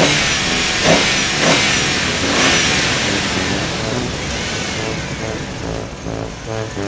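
Cartoon vehicle sound effect: a sudden rising whoosh, then a loud hissing rush that swells a few times and slowly fades, with background music coming back near the end.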